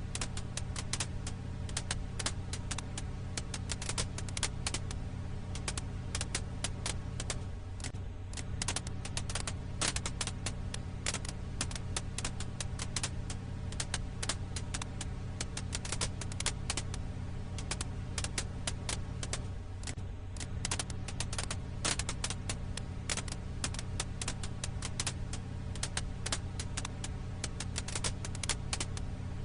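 Firewood crackling in a campfire: a dense, irregular run of sharp snaps and pops over a steady low hum.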